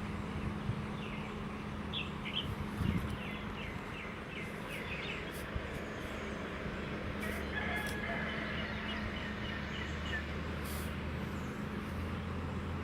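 A rooster crowing once, a long call with several tones about seven seconds in, after a run of short chirping calls. Under it runs a steady background noise with a low hum.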